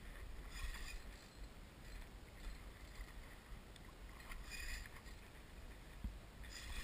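Faint water splashing around a kayak: a few short splashes over a low wind rumble, with a soft knock about six seconds in.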